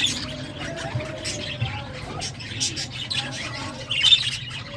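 Lovebirds chattering, a dense mix of shrill chirps and squeaks, busiest about two and a half and four seconds in, over a steady low hum.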